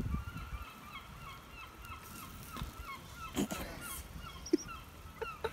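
A bird giving short, repeated calls, several a second, with a brief rush of noise about three and a half seconds in.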